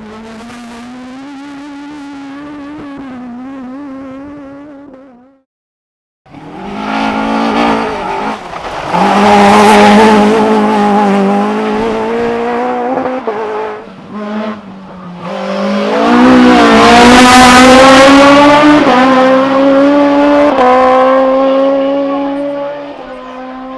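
Race car engines under hard acceleration, revving up through the gears with sudden drops in pitch at the shifts. An edit cut about five seconds in leaves a moment of silence, then a much louder car engine revs past at full throttle.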